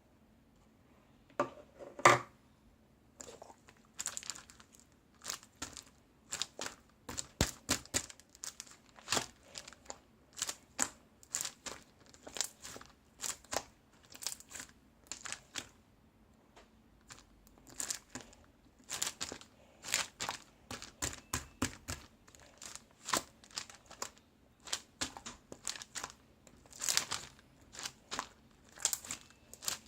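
Close crinkling and crackling, as of plastic or paper being handled and crumpled, in irregular clusters of short crackles. It starts about a second and a half in, and the loudest crackle comes about two seconds in.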